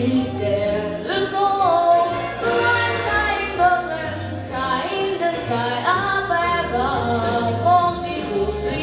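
A female solo vocalist sings a melody with held, gliding notes over instrumental accompaniment with a steady bass line.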